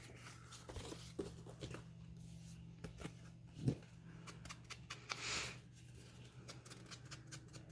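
Faint handling of paper pieces: light rustles and small taps, a soft knock about three and a half seconds in and a brief paper rustle about five seconds in, over a low steady hum.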